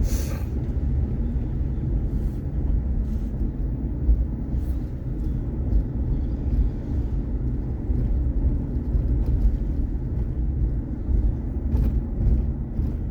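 Steady low road and engine rumble inside a moving vehicle's cabin, with a few faint clicks and rattles.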